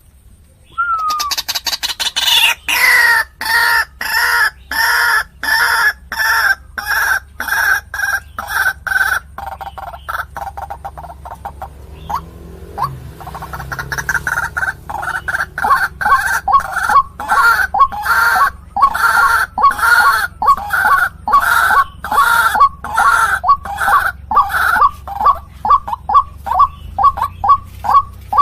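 White-breasted waterhen (ruak-ruak) giving its repeated 'kru-ak' call, about two harsh notes a second. The calls weaken briefly near the middle and then come quicker toward the end.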